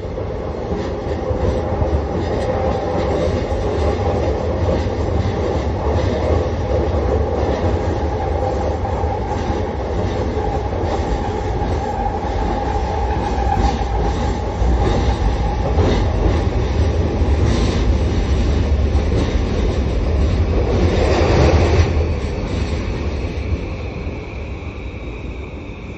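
Inside a moving JR Yamanote Line commuter train car: continuous low rumble of the wheels and running gear with a steady whine. The noise builds to a louder rush about twenty-one seconds in, then eases off.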